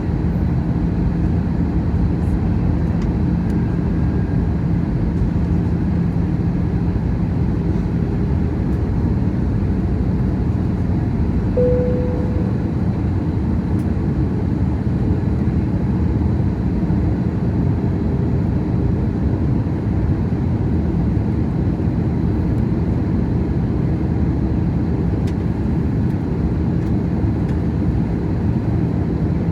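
Steady low rumble of an Airbus A321's engines and airflow heard from inside the passenger cabin, with a faint steady hum. A single short tone sounds about twelve seconds in.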